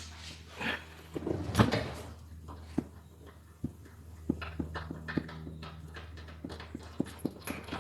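Tools and car interior parts being handled while seats are being unbolted: a scatter of sharp clicks and knocks, with a louder rustling clatter about a second and a half in, over a steady low hum.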